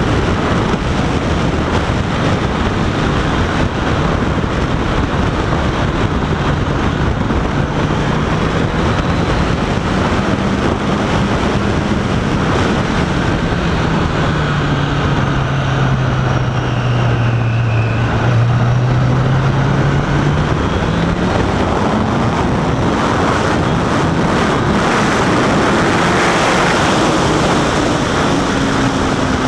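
Wind rushing over the microphone while riding a Honda CBR1000RR Fireblade, its engine note just audible under the wind. The engine pitch sinks slowly through the middle and rises again near the end.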